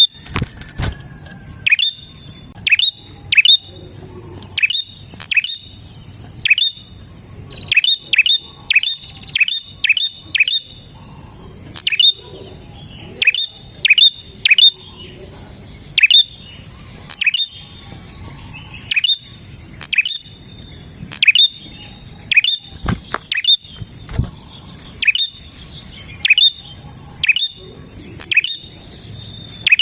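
Prinia (prenjak) calling: sharp, loud chirps, each a quick falling note from a high pitch, repeated about once or twice a second and sometimes in quick runs of three or four, as used to lure prinias.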